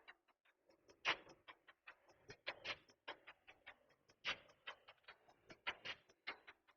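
Chicken frying in hot oil: irregular crackling with sharp pops, a few loud ones among many small ticks.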